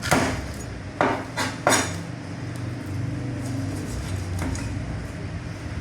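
Four sharp metallic clanks, like utensils or trays being handled: one at the start and three in quick succession about a second in. A steady low machine hum runs underneath.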